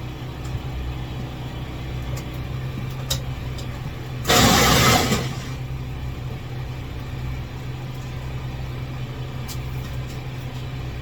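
Steady low motor hum, with a loud burst of hissing noise lasting about a second a little after four seconds in, and a few light clicks.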